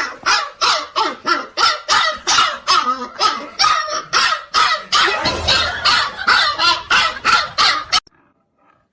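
A dog barking over and over in a fast, steady run, about three barks a second. The barking cuts off abruptly near the end.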